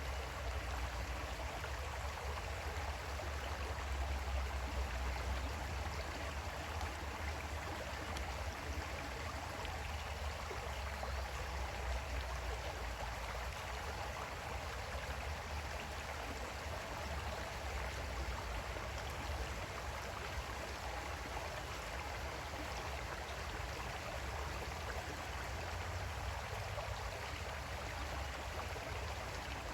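Creek water flowing over stones, a steady rushing and babbling with a low rumble underneath.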